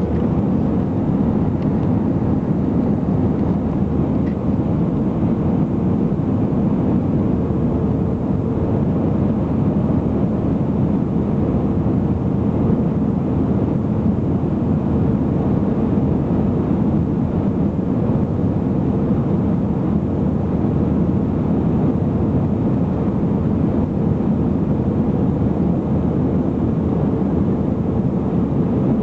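Airbus A320 cabin noise in flight on approach: a steady low rush of engines and airflow heard from inside the cabin, with a faint steady hum running through it.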